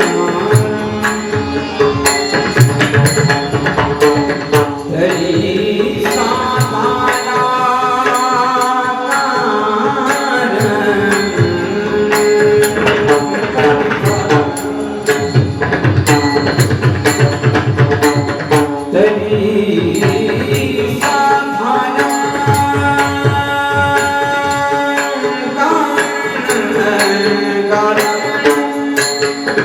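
Marathi devotional singing accompanied by a pakhawaj drum playing dense, rapid strokes.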